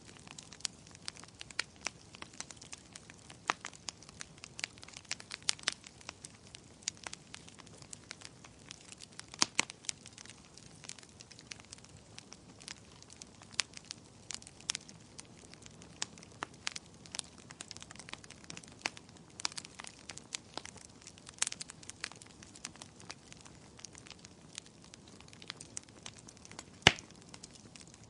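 Wood fire crackling, with irregular sharp pops and snaps over a soft hiss and one louder pop near the end.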